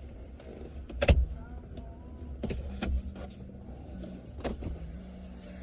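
A vehicle engine idling steadily, with a few sharp clicks or knocks over it, the loudest about a second in.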